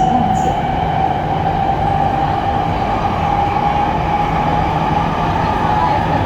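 Shenzhen Metro Line 3 train running, with a steady motor whine that rises slightly in pitch over a continuous rumble.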